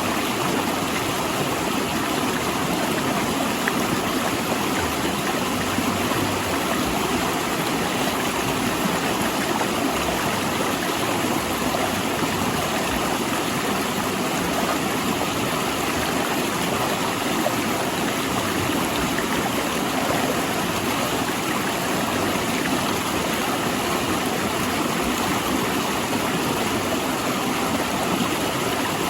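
Mountain river rushing over and between large rocks, a steady, even flow.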